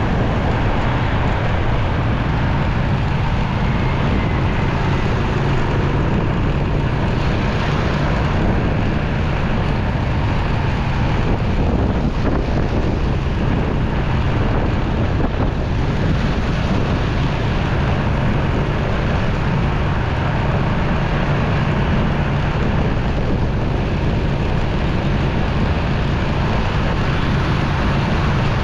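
Motorcycle riding in city traffic: its engine and road noise run steadily, with wind on the microphone and the sound of surrounding traffic.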